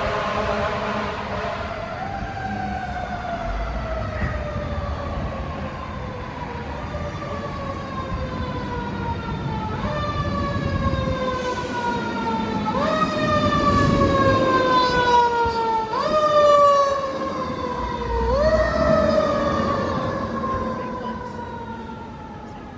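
San Francisco fire truck siren wailing: the pitch jumps up sharply, then slides slowly down, repeating about every three seconds. It grows louder toward the middle, with an engine rumbling underneath, and fades away near the end.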